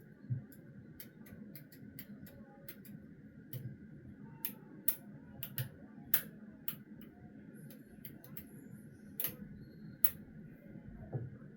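Irregular light clicks and taps, roughly one or two a second, over a faint steady hum.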